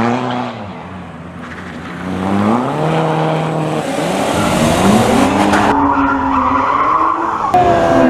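Rally car engine revving hard, its pitch climbing and dropping through a series of gear changes, with tyres skidding. The sound dips briefly about a second in, then builds again.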